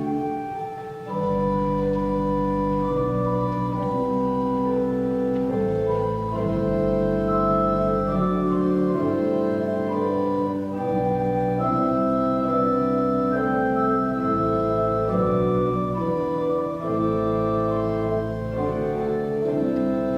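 Organ music: slow, sustained chords changing every second or two, with deep pedal bass notes that come and go.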